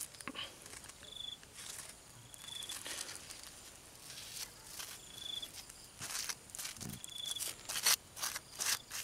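A night insect chirping: a short, high chirp at one pitch, heard four times a second or two apart. Light rustling and clicks come underneath and grow busier near the end.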